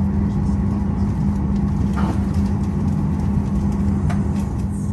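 Steady low rumble and hum inside the cabin of a Boeing 737-800 taxiing, its CFM56-7B engines at idle, with a few faint clicks.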